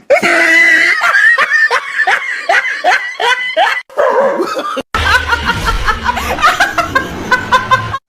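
People laughing hard in quick repeated bursts. About five seconds in there is an abrupt cut to another stretch of rapid laughing over a low hum.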